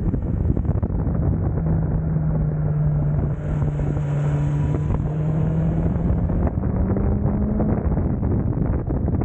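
Motorcycle engine running on a race track, buried in heavy wind buffeting on the microphone. The engine note holds steady for most of the time, rises a little later on, then drops away shortly before the end.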